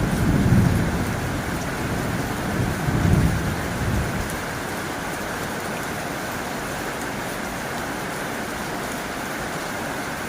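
Heavy rain drumming steadily on a tin roof. A low rumble swells twice in the first four seconds, then the rain goes on evenly.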